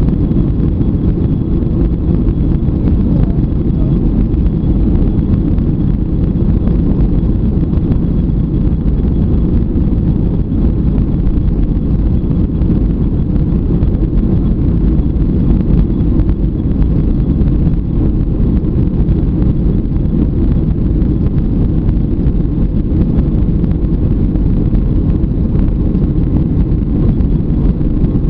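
Jet airliner engines and airflow heard inside the cabin during takeoff: a loud, steady, low rumble with a faint high whine over it.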